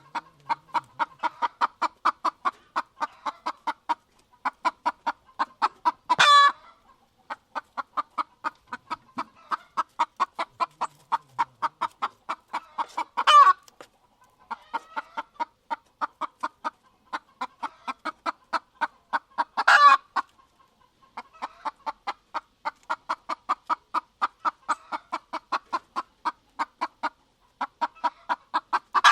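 Hen clucking in quick, even runs of about five clucks a second, broken four times by a louder, longer squawk.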